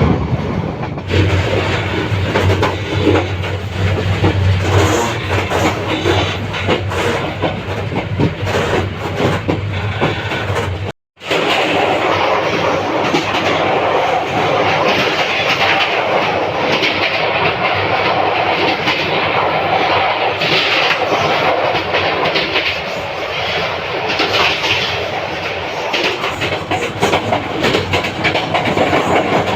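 Turna Express passenger train running on the rails, its wheels clattering over the track joints under a steady rumble. The sound cuts out for a moment about eleven seconds in and comes back with less low rumble and more hiss.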